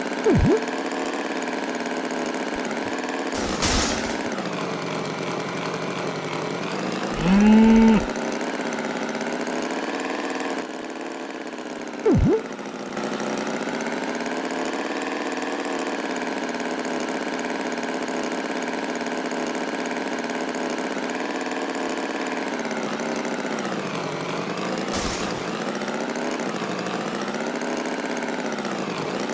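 An engine running steadily, with a short cow moo about seven seconds in and a few brief sudden sounds.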